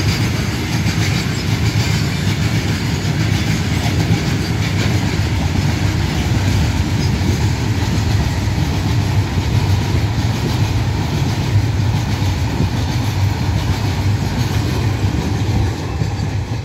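Indian Railways goods train of covered wagons passing close by, its wheels rumbling steadily on the rails. The sound eases a little near the end as the brake van at the tail of the train goes past.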